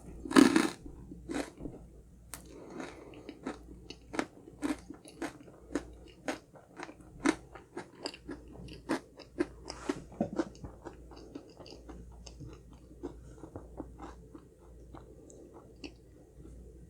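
Close-up crunching of honeycomb-crunch cake: a loud bite about half a second in, then steady crunchy chewing of the hard honeycomb pieces, thinning out over the last few seconds.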